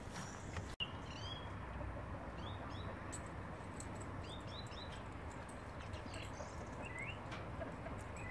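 Small birds chirping: short rising chirps in little clusters every second or two, over a steady low outdoor rumble.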